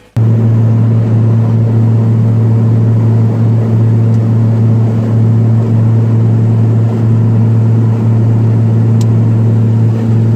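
Car driving at a steady road speed: a loud, unchanging drone of engine and road noise with a strong low hum.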